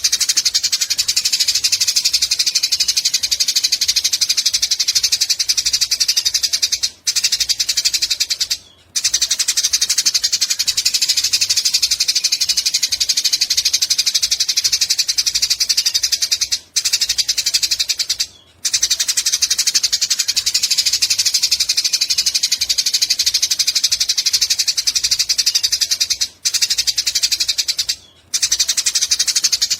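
Eurasian tree sparrow giving long, rapid, unbroken chattering calls, with a few short breaks in pairs about every ten seconds.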